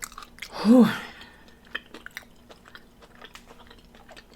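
Close-up chewing of a crispy battered chicken wing: scattered crunches and wet mouth clicks, with one short hummed 'mm' from the eater just under a second in that rises and falls in pitch.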